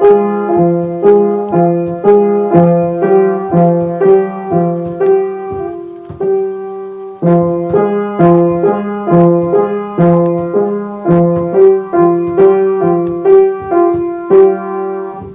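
Piano played in a steady melody of repeated chords, about two strikes a second, with a short pause about six or seven seconds in, then the last chord rings out near the end.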